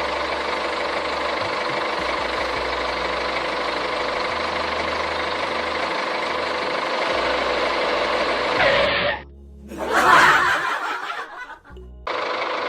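A motor running steadily with a constant hum. It cuts out sharply about nine seconds in, a brief louder burst follows, and the same steady running resumes near the end.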